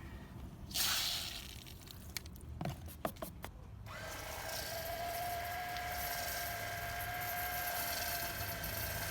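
Electric high-pressure washer: a short hiss of spray about a second in, a few clicks, then the motor starts about four seconds in and runs with a steady whine.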